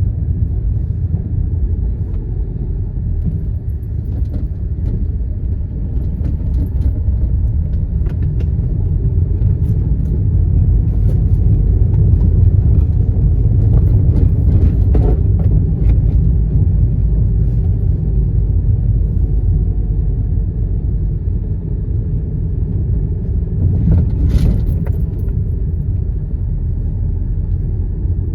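Car driving through city traffic, heard from inside the cabin: a steady low rumble of engine and tyres on the road that grows a little louder midway, with faint clicks and one short sharp noise about three quarters of the way through.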